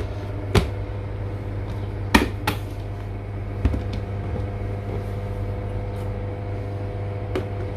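A few sharp plastic clicks and knocks as the lid is fitted back onto a collapsible mini washing machine, the loudest two a little past two seconds in, over a steady low hum.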